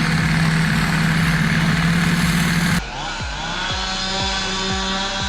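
A chainsaw running at full throttle with a steady high drone. About three seconds in, it cuts off abruptly to a different engine running steadily at a lower level.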